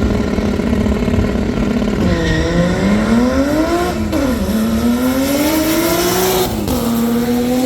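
A car engine accelerating hard through the gears. It holds a steady pitch for about two seconds, then climbs, with two sharp drops at upshifts, about four seconds in and again near the end, typical of a drag strip launch.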